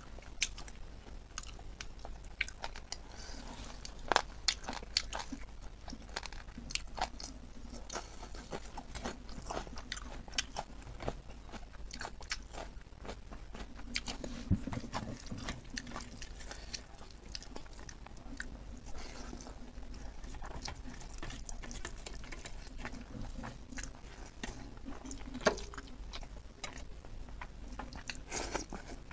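Close-miked chewing and biting of pork ribs and legs eaten by hand, with frequent short mouth clicks and smacks.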